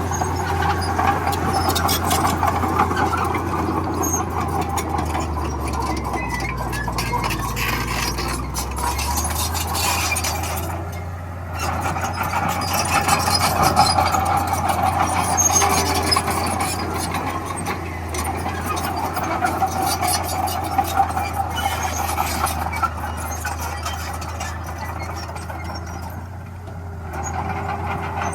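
Crawler bulldozer's diesel engine running steadily under work, dropping briefly in level twice.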